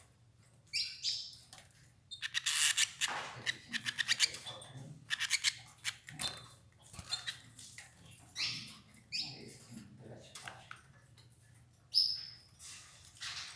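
Domestic canaries giving a few short, high chirps, amid bursts of quick clicking and rustling.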